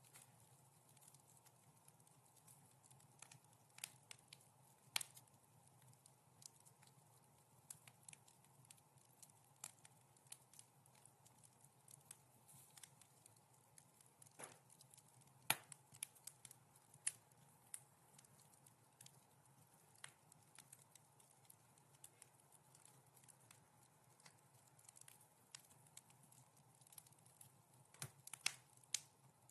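Wood fire crackling softly: irregular sharp pops and snaps scattered over a faint low hiss, with a few louder pops about five seconds in, around the middle and near the end.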